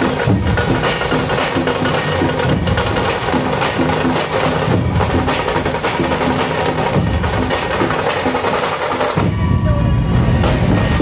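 Loud music with a fast, driving percussive beat and a repeating melodic figure, played over a procession DJ sound system. About nine seconds in it changes abruptly to a heavier, bass-filled section.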